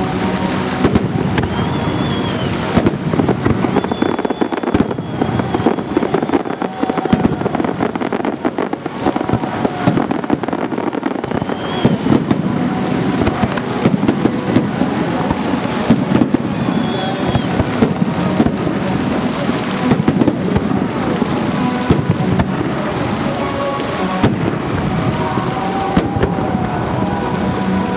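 Festive fireworks display: a dense, irregular barrage of bangs going off in quick succession, with a few short whistles among them.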